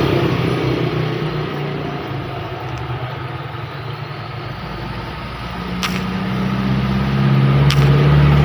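A motor vehicle's engine running, dipping at first and then growing louder from about five seconds in, as if drawing near, over the steady hiss of heavy rain. A couple of brief clicks come near the end.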